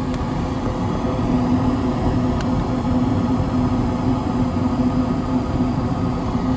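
York gas furnace running just after ignition: the newly replaced draft inducer motor hums steadily over the rush of the freshly lit gas burners.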